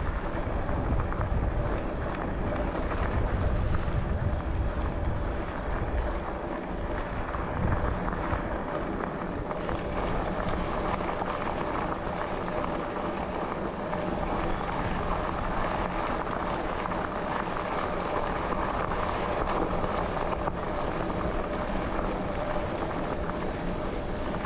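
Riding noise from a bicycle on a trail: wind buffeting the microphone and tyre rumble, heaviest in the first few seconds, with a faint steady whine underneath.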